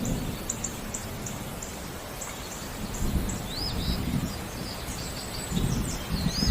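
Steady rain with low rolling thunder that swells a few times and rises sharply right at the end, while birds repeat short high chirps over it.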